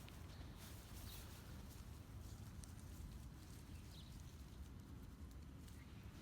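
Faint scattered clicks and rustles of plants being pulled and handled by a gloved hand, over a steady low outdoor rumble.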